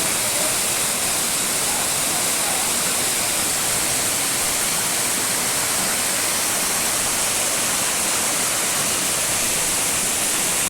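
Waterfall: falling water making a loud, steady rushing hiss that cuts off suddenly at the end.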